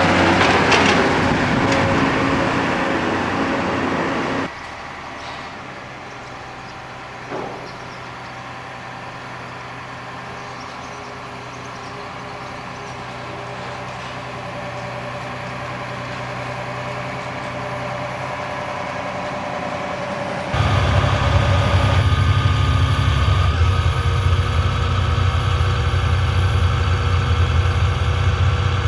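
John Deere 7230R tractor's six-cylinder diesel with an open-pipe exhaust, working under load. It is loud at first, drops abruptly about four seconds in, builds slowly, then comes back loud and deep about twenty seconds in. A single short knock sounds about seven seconds in.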